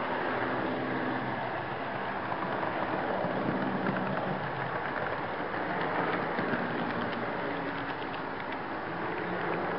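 HO-scale model train running, heard from a flatcar within the train: a steady rolling rattle of wheels on track with a low motor hum and light rapid clicking, most noticeable about halfway through.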